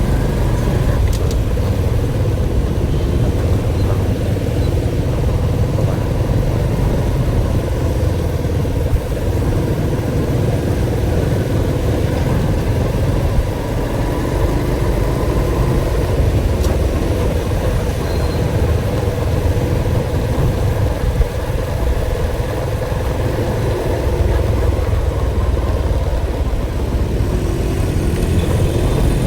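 Motor vehicle engine running steadily under a heavy low rumble of road and wind noise, with a constant drone that holds one pitch throughout.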